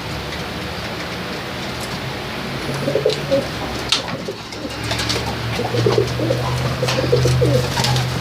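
Domestic tippler pigeons cooing, with repeated warbling coos from about three seconds in and more steadily in the second half, among scattered sharp clicks and rustles.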